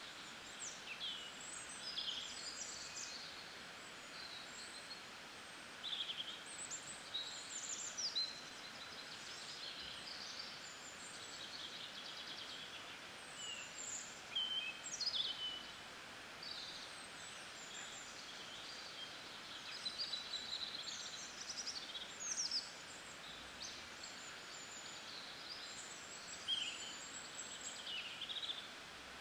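Several birds chirping and singing in short, quick, sweeping calls, in bursts every few seconds, over a steady background hiss of outdoor ambience.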